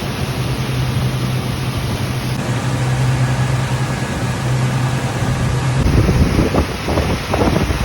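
Ferry engine running with a steady low drone. About six seconds in, gusts of wind start buffeting the microphone.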